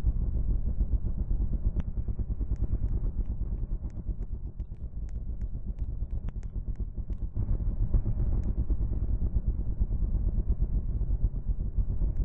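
Dirt bike engine running under riding, a rapid pulsing note. It eases off for a few seconds in the middle and comes back louder about seven seconds in, with faint clicks scattered over it.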